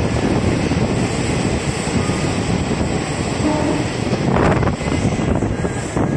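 Passenger train running through a rock tunnel, heard from an open carriage doorway: a loud, steady rumble of wheels on rails with air rushing past, and a brief louder rush a little past four seconds in.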